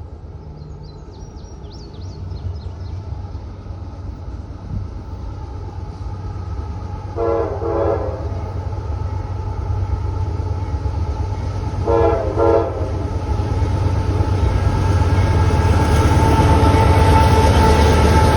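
Diesel locomotive approaching with its engine rumble building steadily louder, sounding its chime horn in two short double blasts, about seven and twelve seconds in.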